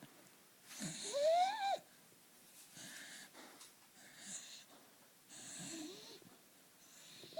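Sleeping dog snoring. About a second in comes a loud whistling wheeze that rises in pitch over about a second, followed by several softer, airy breaths.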